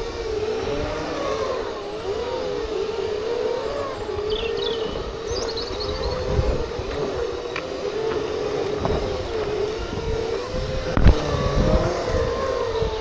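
Segway's electric motor whine, wavering up and down in pitch as the machine balances and changes speed, over a low rumble. A few brief high chirps come around four to six seconds in, and a single knock about eleven seconds in.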